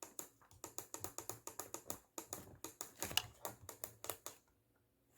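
Rapid clicking of the pushbuttons on a Garmin GMA 347 audio panel being pressed over and over, about five clicks a second, stopping shortly before the end. The buttons take concerted pressing before they register.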